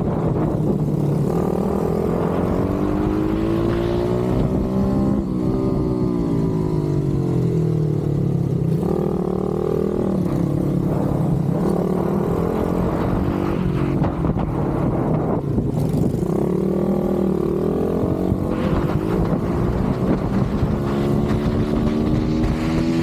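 Pit bike engine revving hard and dropping back again and again as the bike is ridden through the gears, its pitch climbing and falling every second or two.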